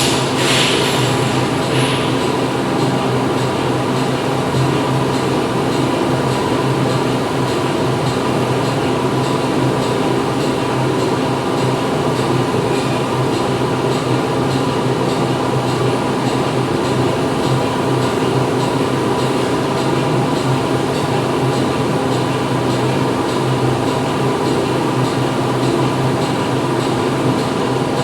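Factory floor ambience: industrial machinery running with a steady hum made of several held tones over a constant noise bed. A short high hiss sounds near the start.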